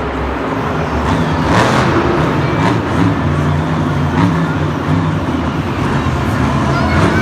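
A motor vehicle engine running, its low pitch stepping up and down as it revs.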